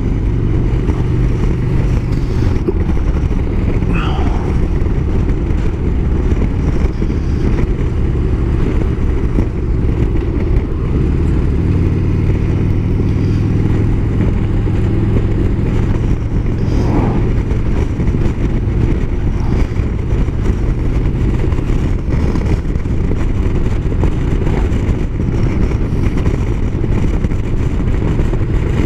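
Motorcycle engine running steadily on the road, heard from on the bike under a thick low rumble of wind and road noise; the engine note shifts about twelve seconds in.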